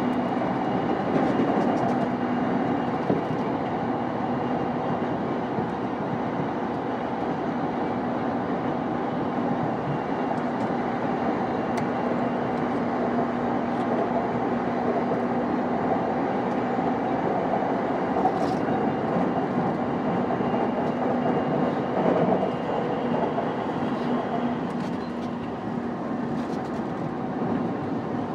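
JR East E233-5000 series electric commuter train running at steady speed, heard from inside the car: an even rolling noise with a steady hum and a few faint clicks from the wheels on the rails.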